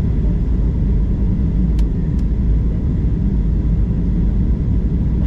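Steady low rumble of an airliner cabin on approach: engine and airflow noise heard from inside the passenger cabin, with two faint clicks about two seconds in.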